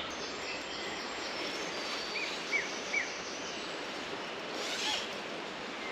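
Woodland ambience: a steady outdoor hiss with a few short bird chirps, three in quick succession about two to three seconds in.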